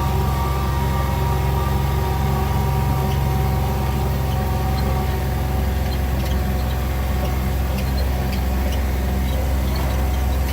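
Motor vehicle running steadily at an even pace, a low engine drone with faint rattling ticks.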